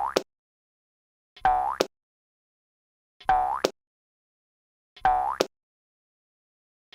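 A short cartoon sound effect with a swooping pitch, played identically over and over, about once every two seconds, with silence in between.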